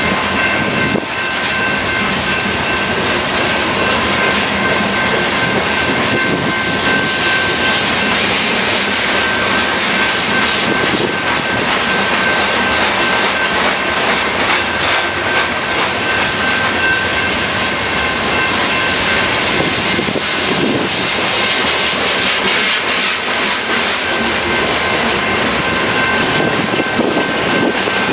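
Freight train of covered hopper cars loaded with frac sand rolling steadily past, its wheels clattering over the rail joints. A thin, high, steady wheel squeal runs over the rolling noise.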